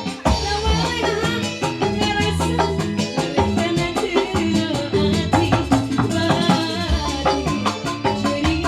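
Live band music with busy percussion strikes over a steady bass line.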